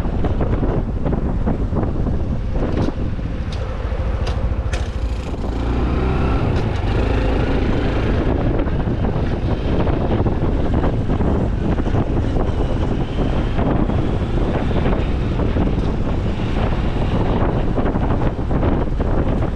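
Honda CT125 Hunter Cub's single-cylinder engine running on the move, mixed with heavy wind rush on the microphone. It eases off a few seconds in, then pulls again with a rising pitch as the bike accelerates.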